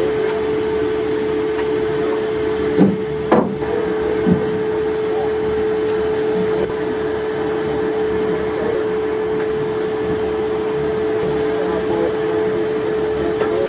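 Torpedo-room handling machinery running with a steady, loud hum on one held tone, with a few metallic knocks about three to four seconds in. It stops abruptly near the end.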